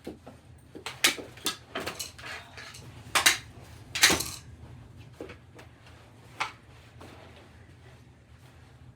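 Sharp clacks and knocks of knee hockey sticks and ball striking each other and the floor. They come in quick succession over the first few seconds, the loudest about four seconds in, then thin out to single knocks.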